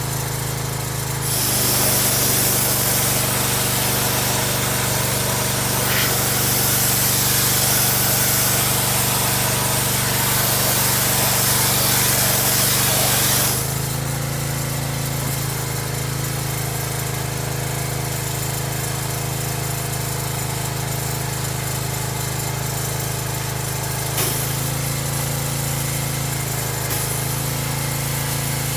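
Excavator engine running steadily, with a loud hissing rush over it from about a second in until about thirteen seconds, and small dips in engine pitch a few times later on.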